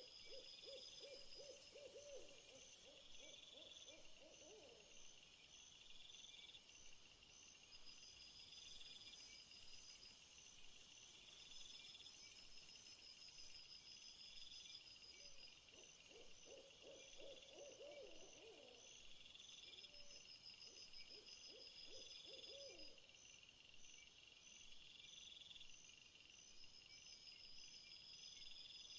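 Faint night-time ambience: insects chirping in steady, high-pitched pulsing trains, with a lower trilling call heard twice, at the start and again about halfway through.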